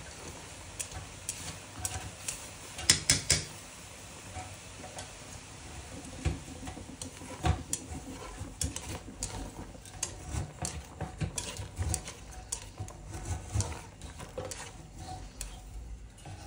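Battered food frying in oil in a pan: a steady sizzle with frequent sharp pops and crackles, and a loud cluster of clicks about three seconds in.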